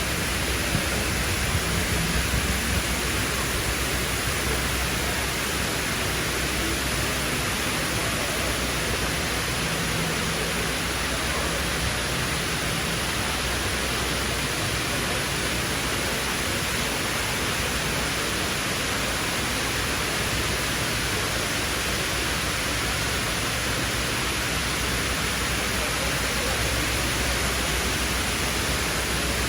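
Steady, even rush of falling water from the Dubai Mall's indoor waterfall.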